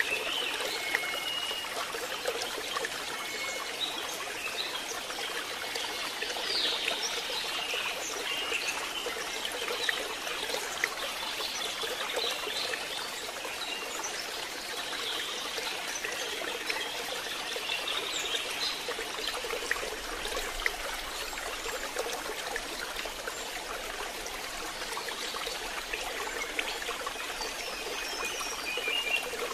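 Steady rain falling, an even hiss, with faint short high chirps now and then.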